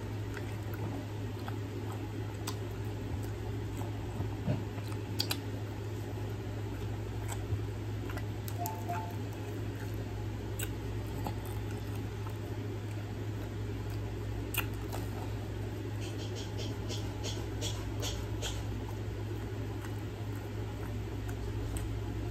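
Close-up eating sounds: chewing and lip-smacking on fried chicken, with scattered sharp wet clicks and a quick run of smacks near the end, over a steady low hum.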